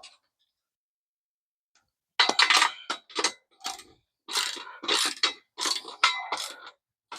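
Hand ratchet wrench clicking through a series of short strokes, starting about two seconds in, as bolts are run down and tightened.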